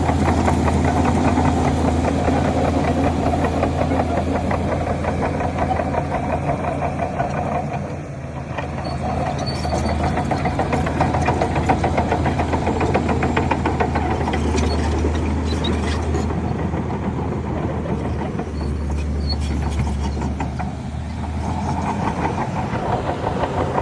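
Heavy diesel engine of earthmoving machinery running steadily under load, easing off briefly about eight seconds in and again near the end.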